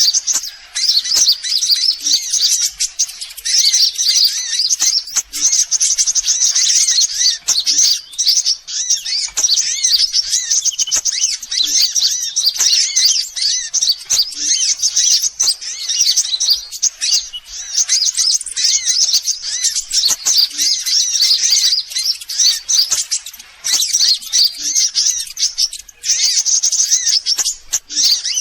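Sunbird calls, a dense, fast run of high-pitched chirps and trills with only brief pauses, played as a lure sound to draw sunbirds in.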